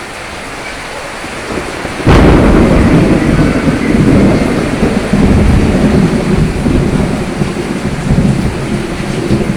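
Steady rain, then a sudden thunderclap about two seconds in that goes on as a long, loud, rolling rumble of thunder over the rain.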